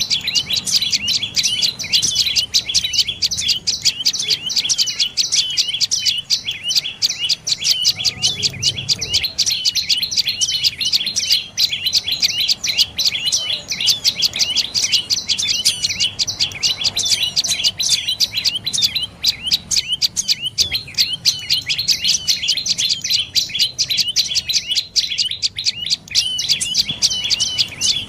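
Dark-necked tailorbird calling: a loud, unbroken run of sharp, high repeated notes, several a second.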